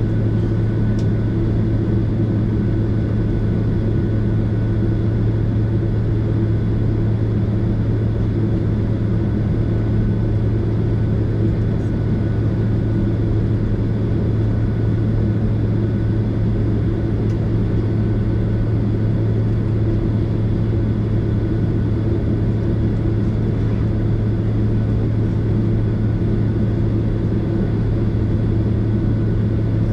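Steady low rumble and hum inside the cabin of a Boeing 767 airliner: engine and airflow noise, unchanging throughout.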